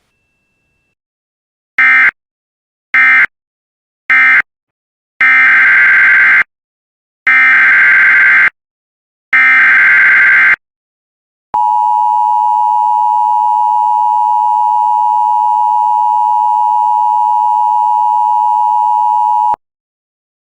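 Emergency Alert System signalling: three short warbling data bursts (the end-of-message code), then three longer SAME header bursts, then the steady two-tone EAS attention signal held for about eight seconds before it cuts off.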